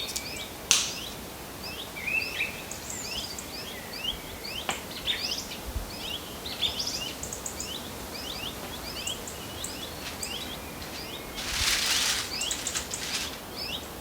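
Birds chirping, a busy run of short quick calls. A sharp click comes a little under a second in, and a brief rush of noise sounds near the end.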